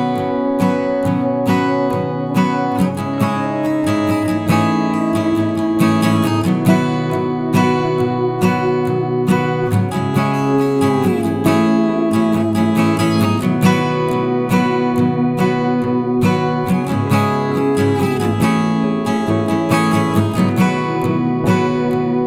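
Instrumental music led by strummed and plucked acoustic guitar.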